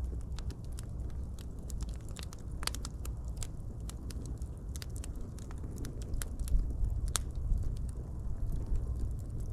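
Wood fire crackling, with irregular sharp pops and snaps over a low steady rumble of flame; one louder pop comes about seven seconds in.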